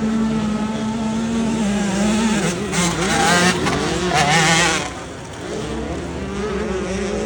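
Several motocross bikes' engines running at once, their pitches wavering as they rev, with two loud surges of hard revving about three and four seconds in.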